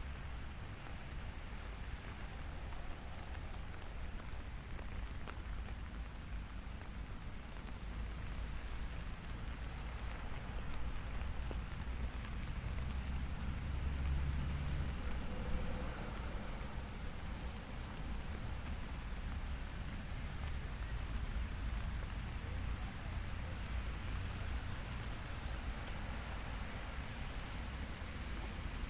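Steady light rain falling on a city street, an even hiss of drops on pavement. Under it runs a low traffic rumble that swells about halfway through.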